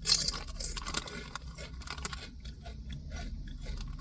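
Potato chips being crunched while chewing: a loud crackle right at the start, then many small crisp crunches.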